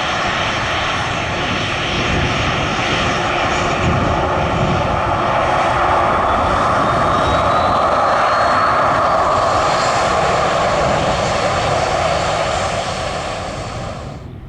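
Airliner engines running as a plane passes, a steady noise with a faint whine that rises slowly in pitch. It swells to its loudest past the middle and cuts off suddenly near the end.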